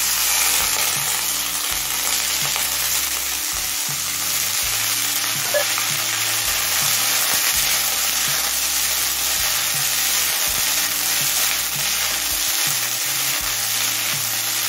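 Chopped kharkol stalks frying in hot mustard oil in a kadai, a steady sizzle, while a spatula stirs and scrapes them around the pan.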